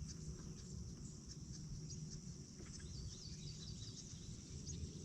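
Outdoor morning ambience: insects shrilling steadily in a high band, with a bird giving a quick run of short chirps about three seconds in, over a faint low rumble.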